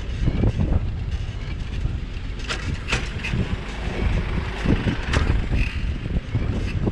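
Bicycle ride over city streets heard through a GoPro action camera: a steady low rumble with scattered sharp knocks and rattles, the clearest about two and a half, three and five seconds in.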